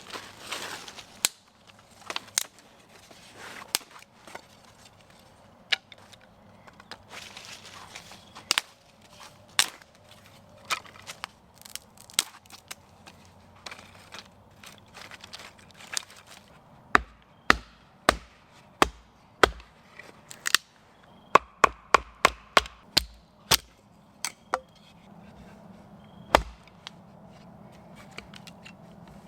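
Firewood being chopped and split: sharp wooden knocks, scattered at first, then a run of harder strikes with a dull thud from a little past halfway, coming quickly for a couple of seconds before thinning out.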